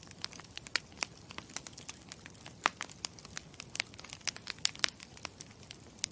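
Campfire crackling: irregular sharp pops and snaps, several a second, over a steady low hiss.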